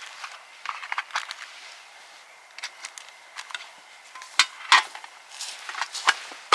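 Scattered light clicks and knocks of hard objects being handled, with two sharper knocks close together about four and a half seconds in.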